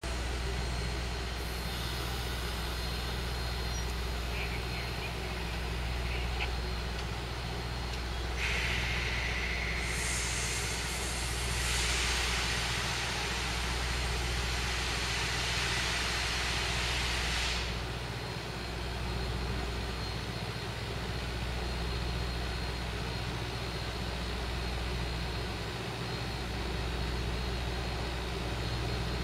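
Slow-moving passenger train approaching with a low, steady rumble from its diesel locomotive's engine. A hiss rises about eight seconds in and runs for about ten seconds before stopping suddenly.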